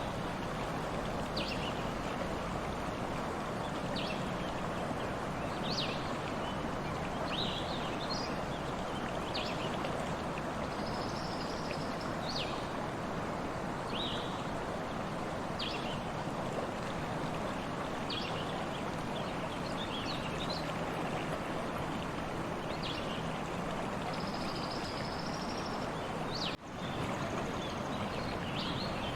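Stream water running steadily, with small birds chirping in short calls every second or two and the odd longer high trill. The sound drops out for a split second near the end.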